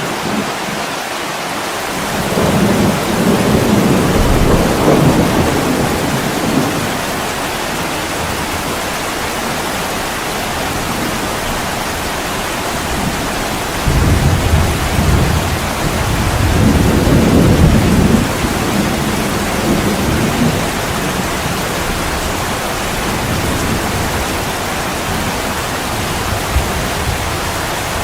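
Heavy rain pouring steadily on a window. Twice, about two seconds in and again near the middle, a long low rumble swells up over the rain for several seconds and dies away.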